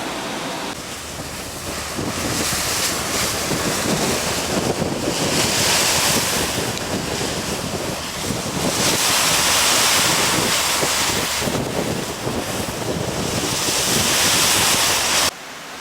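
Wind buffeting the microphone over the rush of sea water alongside a moving ferry, swelling and easing in gusts every few seconds. It cuts off abruptly near the end.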